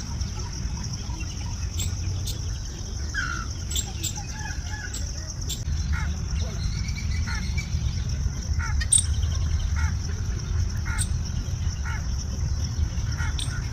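Birds chirping and calling in short, scattered notes over a steady high hum and a constant low rumble.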